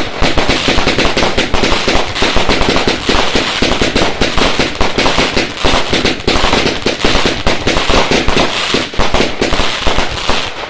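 Fireworks finale: a continuous barrage of rapid bangs and crackling explosions, dozens a second, that dies away just after the end.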